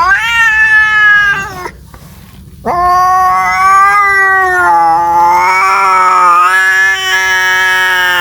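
Domestic cat yowling in drawn-out caterwauls: a short call rising in pitch, then after a gap of about a second a long, wavering yowl held for several seconds.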